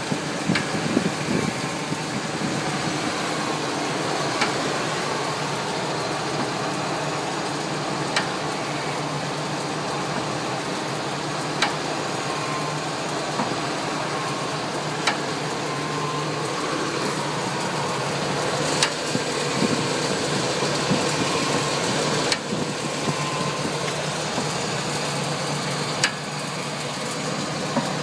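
Engine of a 1999 Chevrolet Suburban idling steadily, heard from underneath the truck, with a short sharp click about every three and a half seconds.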